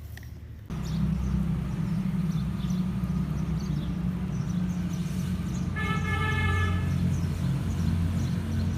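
A steady low vehicle engine hum cuts in suddenly near the start. A horn sounds once for about a second, a little past the middle.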